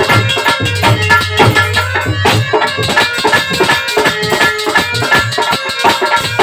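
Instrumental interlude of Indian folk devotional music: a fast, even hand-drum beat with jingling metal percussion under sustained melodic tones.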